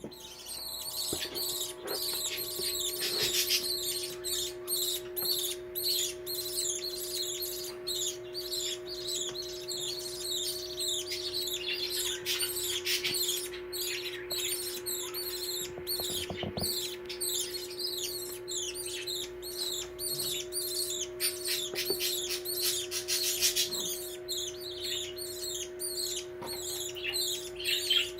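Baby budgies chirping in quick, continuous strings of high calls, the begging calls of chicks at feeding time. A steady low hum runs beneath.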